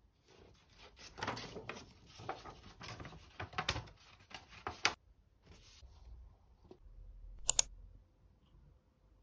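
Paper rustling and crackling as a letter is slid out of an envelope and handled, for about five seconds. A single brief, sharp knock follows about seven and a half seconds in.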